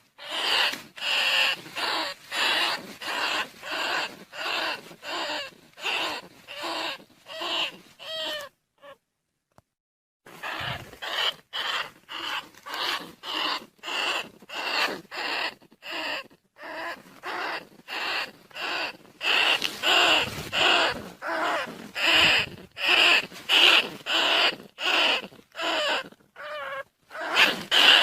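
Rat squeals repeated in a steady rhythm of nearly two a second, played as a lure call to draw field rats and bandicoot rats. The calls break off for about two seconds around nine seconds in, then start again.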